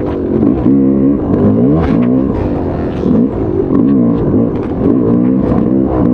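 Motocross bike engine revving hard and dropping back over and over as the throttle is worked, its pitch climbing and falling about once a second.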